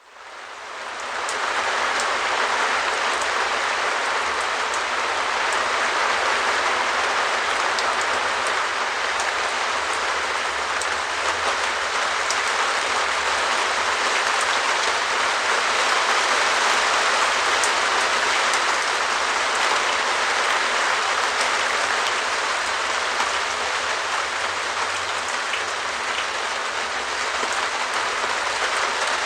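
Steady rain pattering on a perspex (clear plastic) shed roof, a dense hiss of many small drop impacts with the odd sharper tick. It fades in over the first second or two.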